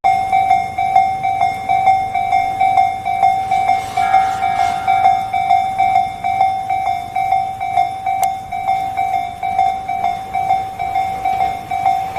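Railway level-crossing warning bell ringing in a fast, even rhythm of about three strokes a second. A brief higher tone joins in about four seconds in.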